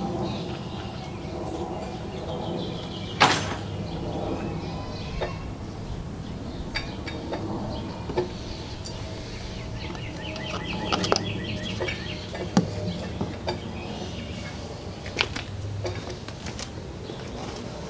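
Birds chirping, with a rapid trill of chirps about two-thirds of the way through, over a steady low outdoor background, broken by a few sharp knocks.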